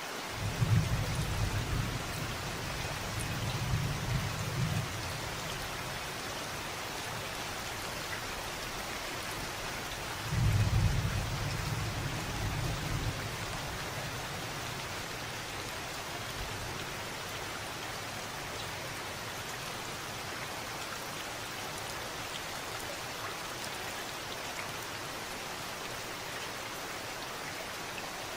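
Steady rain falling, with two low rolls of thunder: one starting about half a second in and lasting some four seconds, another starting about ten seconds in and lasting some three seconds.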